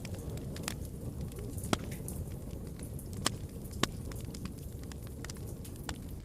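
Wood fire in a fireplace burning with a steady low rumble and frequent crackles and pops, three sharper pops standing out in the middle.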